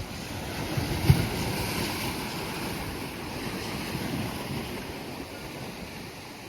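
Sea water washing and splashing around a kayak, with wind on the microphone; a single knock about a second in.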